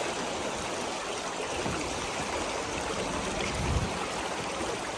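Shallow stream rushing over stones, a steady even hiss of flowing water. A brief low thump about three and a half seconds in.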